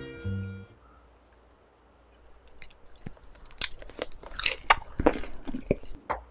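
Background music ends within the first second. After a short pause, a person chews grilled marinated pork rib into a close microphone, with a run of wet mouth clicks and smacks in the second half.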